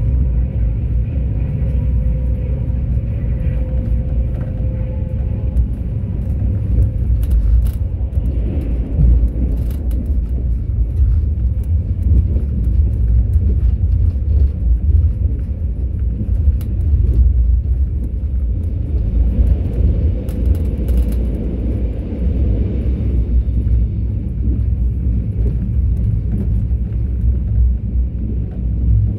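Mugunghwa-ho passenger train running along the track: a steady, deep rumble of wheels and running gear that holds even throughout, with a few faint clicks.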